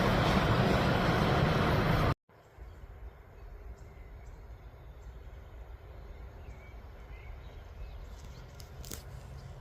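Loud, steady rushing noise of a passing train, cut off abruptly about two seconds in. Then quiet open-air ambience with a faint low rumble, a few faint high chirps, a brief click, and a low hum building near the end.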